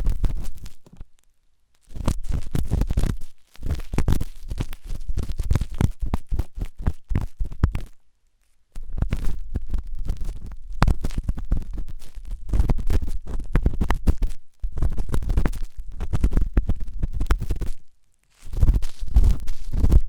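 Intense ASMR ear cleaning: an ear pick scraping hard and fast, heard very close, with a deep rumble under rapid scratchy strokes. It comes in bursts of a few seconds, broken by brief silences about a second in, around eight seconds, and near the end.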